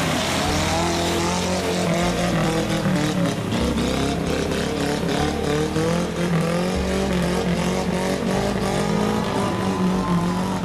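Off-road 4x4 vehicle's engine revving hard and working under load, its pitch wavering up and down over a heavy rushing noise.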